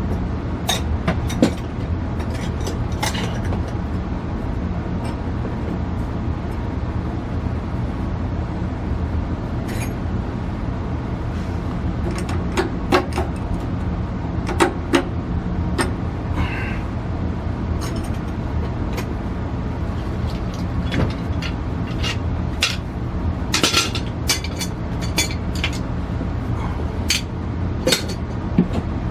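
Steady low rumble of water running into a gas water heater tank as it is refilled after a gas-valve replacement, with scattered metallic clicks and clinks.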